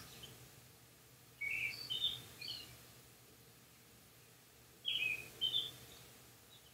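A bird chirping: two short bursts of quick high notes, about three and a half seconds apart.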